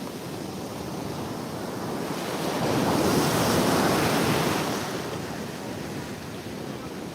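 Ocean surf washing on the beach, with wind buffeting the microphone; the rush swells to its loudest around the middle and then eases off.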